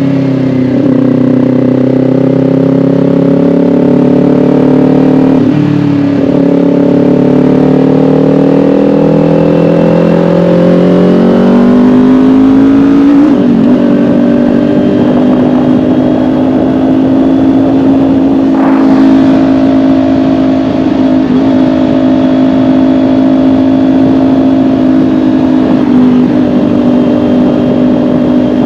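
Kawasaki Ninja 400 parallel-twin engine running under way, its pitch climbing with brief dips as it pulls through the gears in the first half, then holding steady at cruising revs.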